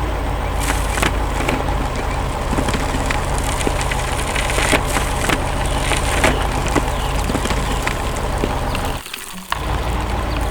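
Dense crunching and cracking over a steady low rumble, cutting out briefly about nine seconds in.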